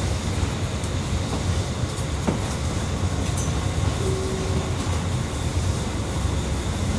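Tokyu Toyoko Line commuter train running on the line, heard from inside the car: a steady low rumble of wheels on rail, with a single click about two seconds in and a brief whine around four seconds.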